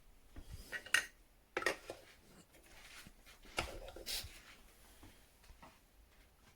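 Light handling noise: a handful of clicks and short clatters of hard objects being moved, the loudest about a second in and again about four seconds in.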